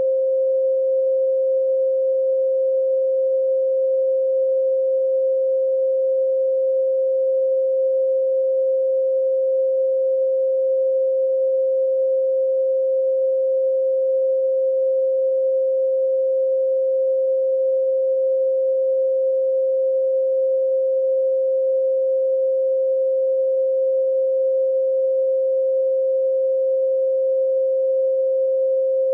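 A continuous pure sine tone at 528 Hz, held steady at one pitch without change.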